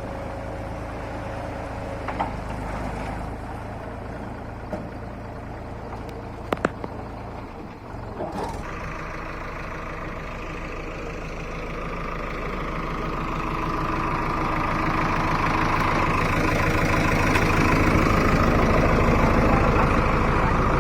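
Heavy diesel engine running at a steady idle, with two sharp clicks about a third of the way in. After a brief dip the engine note changes and grows steadily louder through the second half as it takes up load during loading work.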